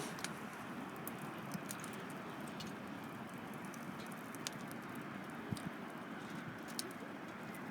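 Wood campfire burning, with a low steady hiss and scattered sharp crackles and pops, about one a second.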